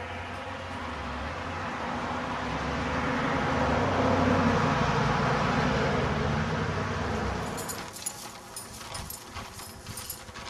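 A motor vehicle's engine passing close by, building up to its loudest about halfway through and fading away. Near the end a run of irregular sharp clicks and taps follows.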